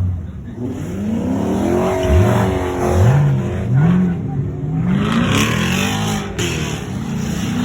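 A car engine revved hard several times in a row, its pitch climbing and dropping about five times over a steady rumble.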